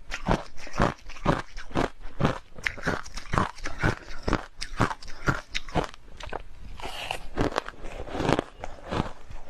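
Hard, clear crushed ice being chewed close to the microphone: sharp crunches at about three a second, easing into a brief softer lull about two-thirds of the way through before the crunching resumes.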